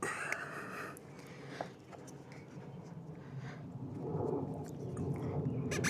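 Strap wrench being worked on an outboard motor's spin-on oil filter, with rubbing and scraping and scattered small clicks. A low rumbling handling noise builds from about four seconds in.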